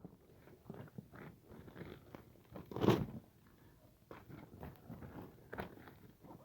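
Irregular crunching and rustling of dry paper and kindling being handled and crumpled to build a campfire, with one louder crunch about three seconds in.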